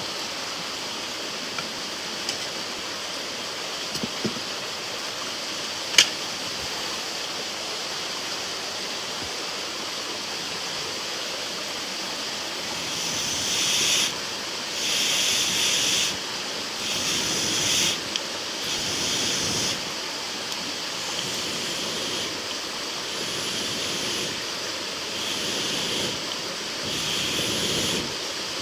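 Campfire burning with a steady hiss and a few crackles, one sharp pop about six seconds in. From about halfway, a run of short hissing bursts of air with brief pauses between them, as the fire is blown on until the freshly added wood catches.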